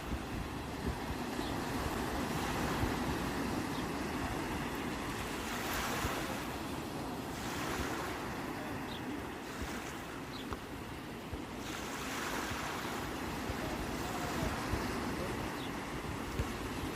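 Sea waves surging and washing onto the shore, a steady surf with two louder washes, about a third of the way in and again past two-thirds. Wind buffets the microphone underneath.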